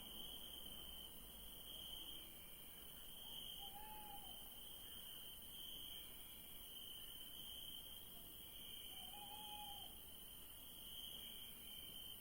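Crickets chirping in a steady, faint, high-pitched chorus that swells and fades gently. Over it, an owl gives two short hoots, about four seconds in and again about five seconds later.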